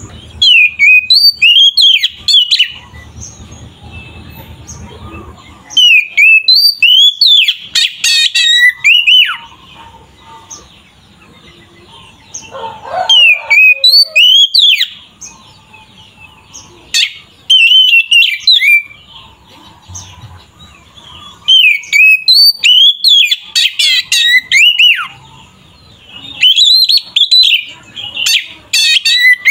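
Oriental magpie-robin (kacer) singing loud bursts of varied whistled notes and quick chattering phrases, with short pauses between the bursts.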